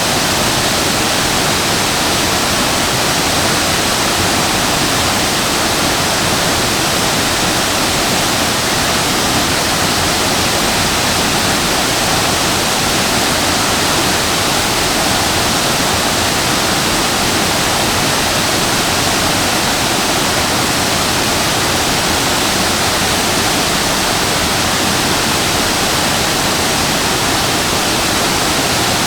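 Shasui Falls waterfall: water falling and splashing in a steady, unbroken rush.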